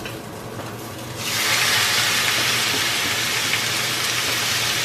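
Diced raw chicken going into a hot pan of onions and olive oil: about a second in, a steady sizzle starts abruptly as the meat hits the oil and keeps going.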